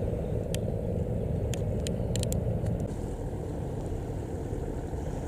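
Steady low rumble of a boat's diesel engine on the river, with a few faint ticks over it.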